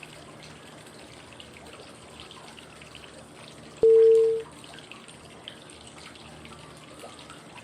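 Steady flowing-water background with small drips and trickles. About four seconds in comes a single short cue tone, one clear pitch that starts suddenly and fades after about half a second. It is one of the prompt tones that sound every five seconds to mark the next phase (inhale, hold, exhale) of 5-5-5 breathing.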